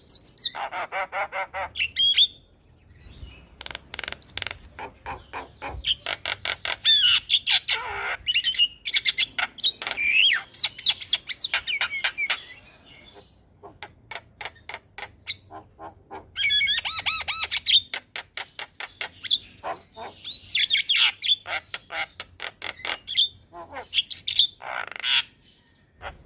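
Javan myna (jalak kebo) singing: fast runs of sharp chattering notes, several a second, mixed with harsh squawks and whistled notes, easing off twice into quieter stretches.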